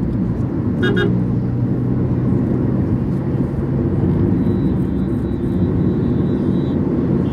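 Car engine and road noise heard from inside a moving car: a steady low rumble of engine and tyres. A brief high-pitched sound cuts in about a second in.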